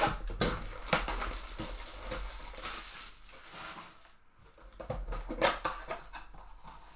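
Trading-card packs being handled and opened: foil wrappers crinkling and tearing, with cards rustling and sliding, in irregular bursts.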